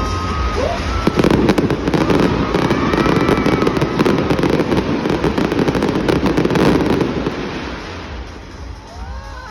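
Fireworks crackling and popping in a dense, continuous stream that swells about a second in and dies away near the end.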